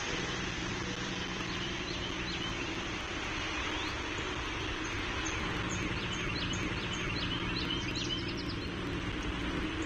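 Outdoor ambience: a steady low mechanical hum and rumble under an even hiss, with faint small bird chirps, quick rising notes, scattered through the second half.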